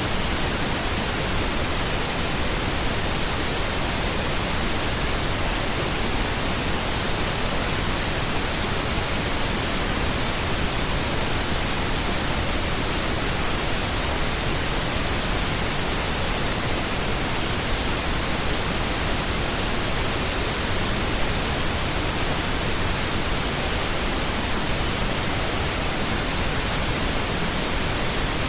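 Steady synthetic pink noise: an even, unchanging hiss that is fuller in the low end than white noise.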